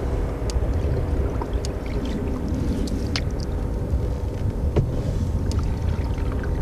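Wind buffeting the microphone in a low, steady rumble while a canoe is paddled, with a few light clicks and splashes of the paddle in the water.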